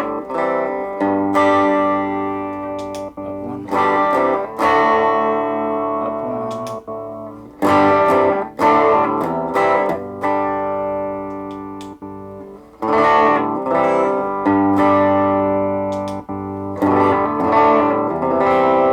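Electric guitar (a Vintage VS6) played through a Positive Grid Reactor 50 1x12 combo amp on its Warm channel, with the Heat setting turned all the way down. Chords are struck every second or two and left to ring out and fade.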